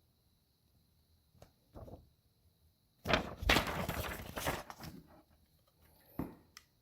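Hard plastic clicks and clattering as the DX Cyclone Riser toy transformation belt is handled and worked: two soft clicks, then about two seconds of dense clattering and rubbing in the middle, and a single sharp click near the end.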